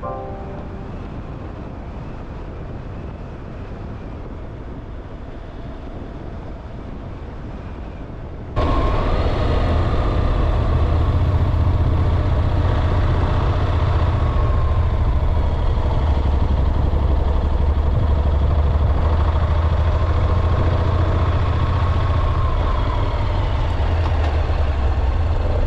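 Motorcycle riding noise: steady engine and wind rumble on a bike-mounted microphone. About eight seconds in it jumps abruptly to a much louder, deeper rumble, with a faint wavering whine on top.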